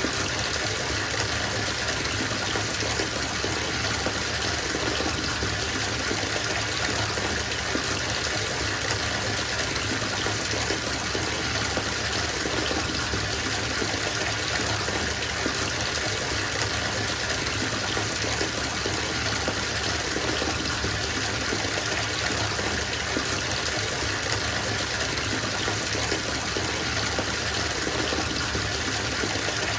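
Tap water pouring into a filling bathtub, a steady, even rush.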